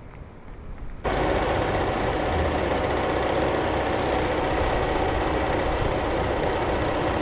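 A heavy vehicle's engine running with a steady loud rush of noise, starting suddenly about a second in.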